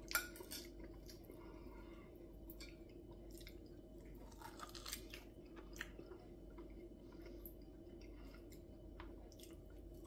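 Faint chewing and wet mouth clicks of a man eating sauce-covered pork ribs, with scattered small clicks over a low steady hum.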